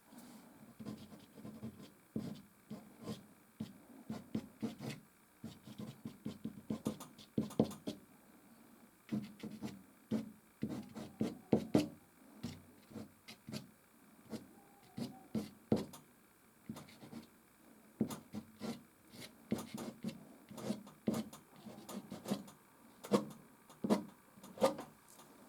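Soft pastel sticks scratching and rubbing across canvas in many quick, irregular strokes, with a few short pauses between runs of strokes.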